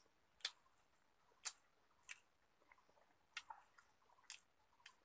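Faint chewing with short, wet mouth smacks, about seven of them at irregular intervals.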